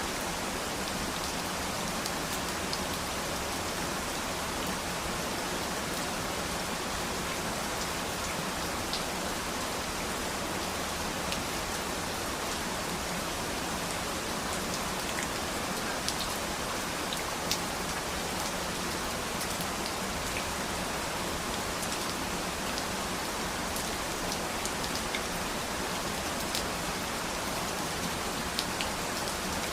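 Steady rain falling, an even hiss with scattered sharper taps of single drops.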